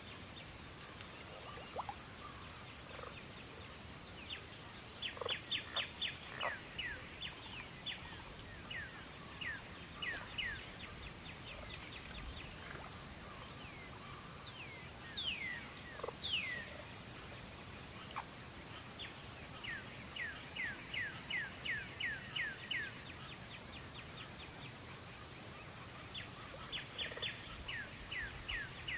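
Steady, high-pitched chorus of crickets at twilight, continuous throughout. Runs of short falling chirps from another animal come over it several times.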